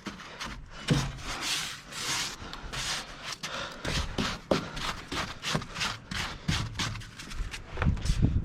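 Snow being scraped and crunched in quick, uneven strokes, several a second.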